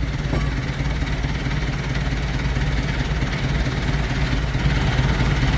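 Heavy-duty lathe running steadily: a constant low motor and drive hum with an even hiss above it.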